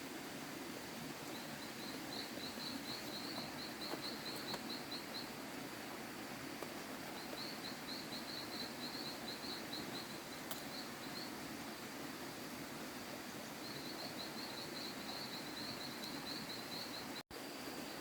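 Outdoor ambience: a steady background hiss with three runs of rapid, high-pitched chirping from a small animal, each about four seconds long. The sound briefly cuts out near the end.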